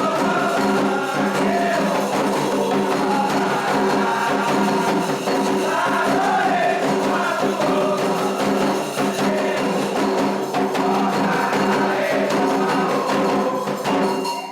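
Candomblé ritual music: a group singing a chant to the orixás over steady, fast hand percussion.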